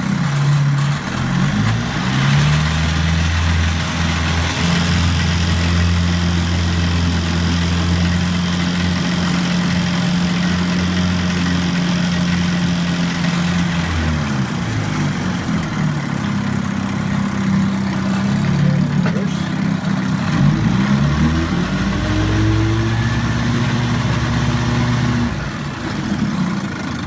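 A 1960 Johnson 5.5 hp two-stroke twin outboard motor running in a test tank after a full tune-up, sounding like it runs well. It holds a steady speed, then its pitch dips and rises about halfway through and again past two-thirds as the throttle is worked. It settles at another steady speed and drops back near the end.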